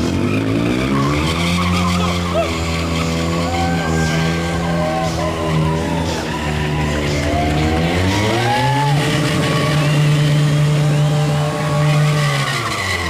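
Stunt motorcycle engine held at steady revs with tyre squeal. About eight seconds in the revs climb and hold higher, then drop just before the end.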